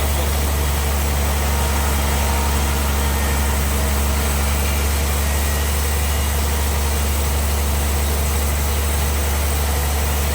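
Sawmill bandsaw machinery running with a steady, unchanging low hum.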